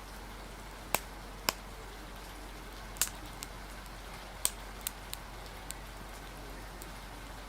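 Steady rain hiss with about ten sharp, irregular pops and crackles from a wood fire scattered through it.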